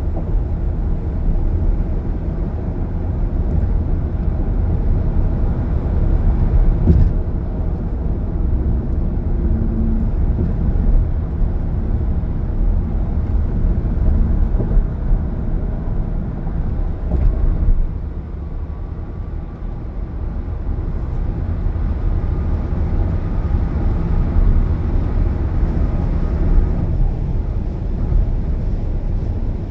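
Car driving on a highway: a steady low rumble of road and engine noise that eases off a little past halfway and then builds back up.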